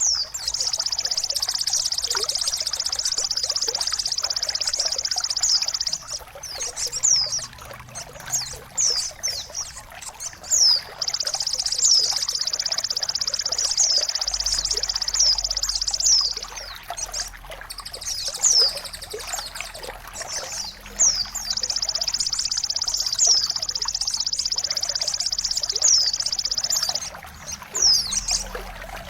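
Bird-song tutor audio over trickling water. A high, buzzing trill runs for about five or six seconds three times, with short, high, downward-sweeping chirps between the trills and a steady trickle of water underneath.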